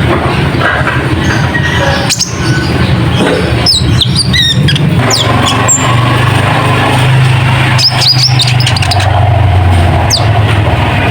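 Konin (kolibri ninja) sunbird lure call: short, sharp, high chirps falling in pitch, in several quick clusters, over a loud steady low hum.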